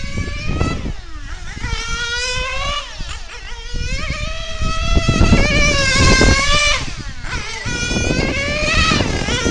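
1/8-scale Mugen MRX6 nitro RC car's Novarossi 9-port glow engine running at high revs around a track. Its pitch climbs on the throttle and drops off several times as the car laps.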